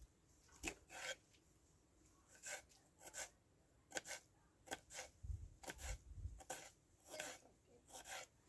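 Quiet, irregular scraping and rubbing strokes, about a dozen short ones spread over several seconds.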